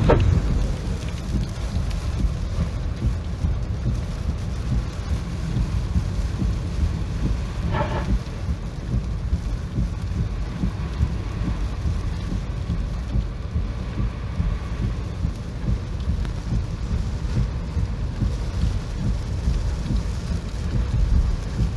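Typhoon rain and wind: a steady wash of rain under a heavy, rumbling roar of wind, with a short squeak about eight seconds in.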